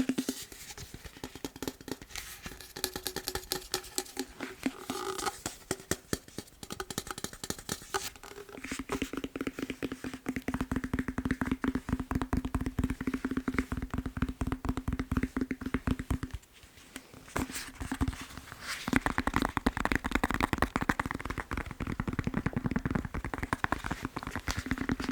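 Fast, continuous tapping on a foam massage roller. From about a third of the way in, a steady low ring sits under the taps, and there is a brief lull about two-thirds through.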